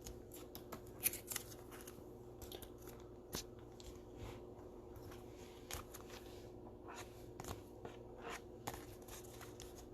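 Faint, irregular clicks, taps and rustles of trading cards in plastic top loaders and sleeves being handled and set down on a table, over a faint steady hum.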